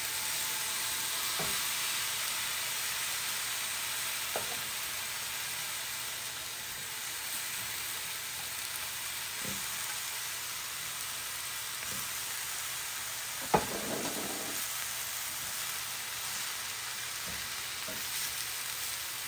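Chicken tenders and cauliflower rice sizzling steadily in a cast-iron skillet, with scattered light clicks of a spatula against the pan and plate and one sharper knock about 13 seconds in.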